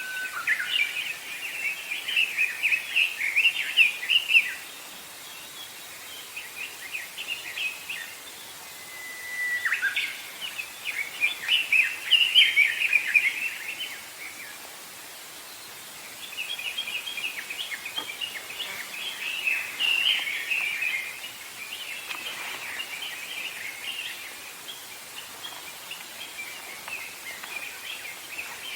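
Wild songbirds singing: long twittering runs of rapid high chirps, in three loud stretches of several seconds each with pauses between, and fainter chirping toward the end.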